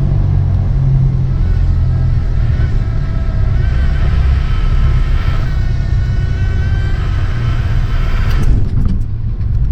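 Cessna 172's engine and propeller droning steadily in the cockpit. The stall warning horn sounds from about three and a half seconds in for several seconds as the airspeed bleeds off in the landing flare. A few sharp knocks come near the end.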